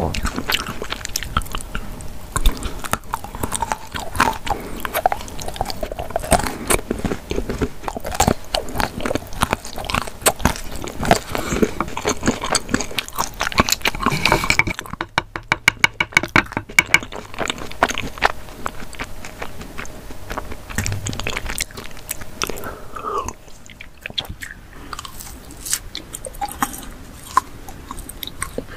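Close-miked biting and chewing of solid chocolate moulded into tool shapes, with crunchy clicks and crackles of the chocolate. About halfway through there is a quick run of evenly spaced taps.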